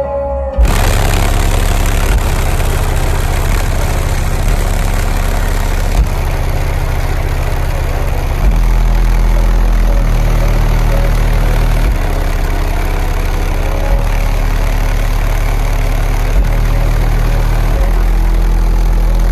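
A car audio system's subwoofers playing very loud, deep sustained bass notes, the note shifting every few seconds, with a wash of noise over the top.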